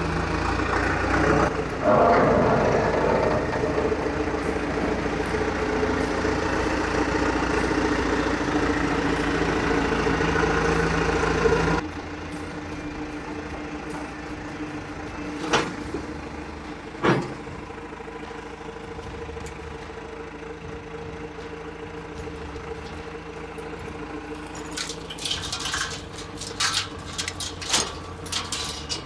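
An engine running steadily, quite loud at first and then noticeably quieter about twelve seconds in. Two sharp knocks follow a few seconds later, then a flurry of clanks near the end.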